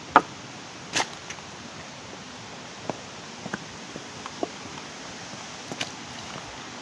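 Footsteps along a bush trail: a few irregular sharp knocks and crackles, the loudest two in the first second, over a steady hiss.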